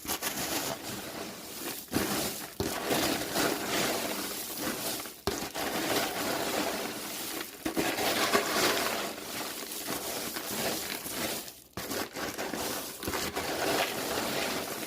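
Popcorn being stirred and tossed by hand to coat it with melted almond bark: a continuous dry rustling crunch of kernels, with a few short pauses.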